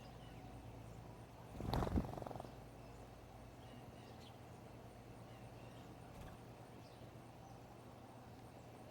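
Bird at a feeder close to the microphone: a short, loud flurry of rustling and fluttering about two seconds in, over a steady low hum, with a few faint high chirps.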